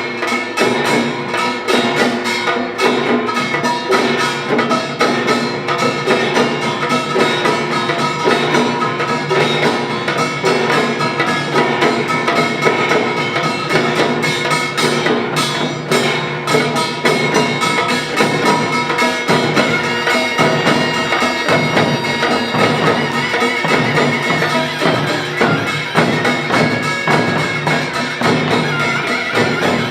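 Korean pungmul ensemble playing: dense, fast percussion over several steady held notes.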